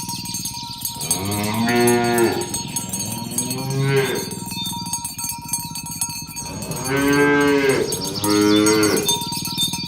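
Cattle mooing: four long calls, the first two a second apart and the last two back to back near the end.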